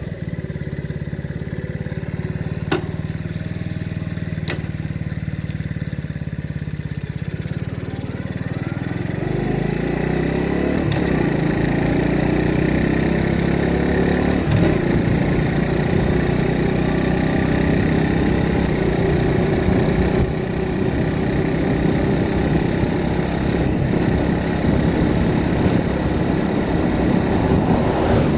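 Motorcycle engine idling steadily, then pulling away about nine seconds in and running under way, louder, with road and wind noise.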